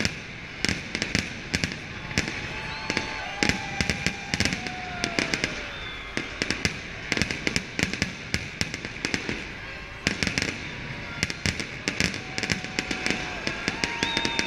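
Fireworks going off in rapid volleys of sharp bangs and crackles, with a few falling whistling tones among them.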